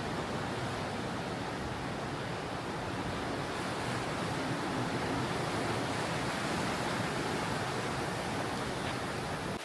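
Steady rush of wind and sea passing a cruise ship under way, with wind buffeting the microphone. Near the end it cuts off abruptly to a quieter hiss.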